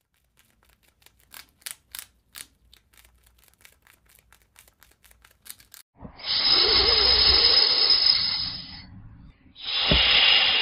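Faint, quick clicks and chirps from a squirrel, then a snake hissing loudly twice, in two long hisses with a short break between them.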